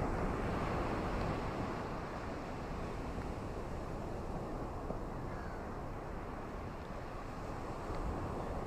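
Ocean surf washing steadily on a shore: a low, even rush of water that swells slightly near the start and again near the end.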